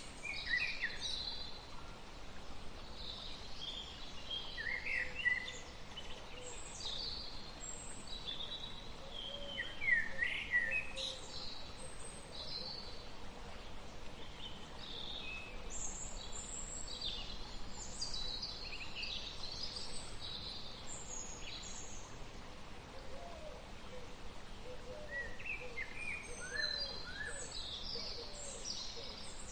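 Several wild birds singing and calling, short overlapping chirps and whistles, over a steady background hiss of open-air ambience. Faint low-pitched calls join in the last third.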